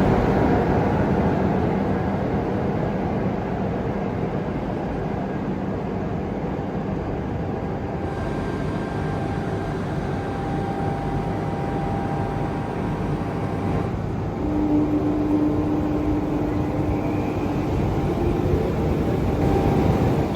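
Train running: a steady, loud rumble of wheels and rails with faint whining tones over it.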